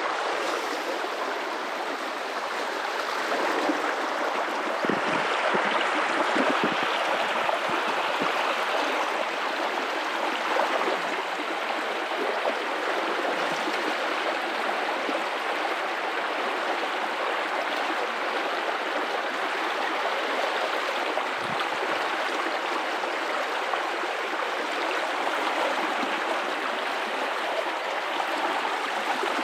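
Guadalupe River running over rocks: a steady rushing and gurgling of flowing water, a little louder for a few seconds early on.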